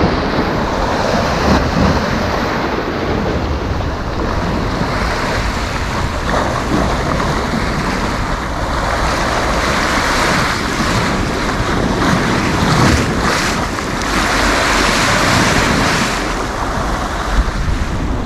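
Sea waves breaking and washing up the beach, with wind buffeting the microphone as a low rumble; the surf swells louder about ten seconds in and again about fifteen seconds in.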